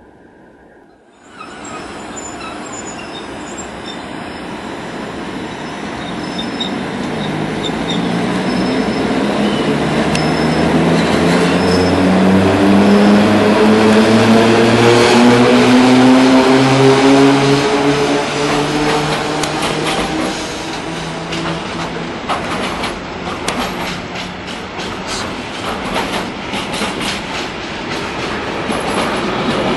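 An electric locomotive hauling a container freight train passes close by. Its motors give a whine that rises in pitch as it grows louder, loudest around the middle. After that the container wagons' wheels clatter over the rail joints.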